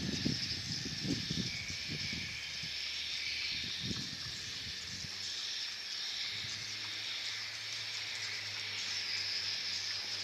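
Many swiftlets chirping and twittering together, a dense, hissing chatter. Low rumbling knocks in the first few seconds, then a low steady hum from about halfway.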